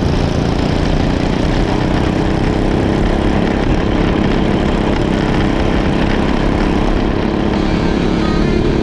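Racing kart engine running steadily at speed, a loud, even drone.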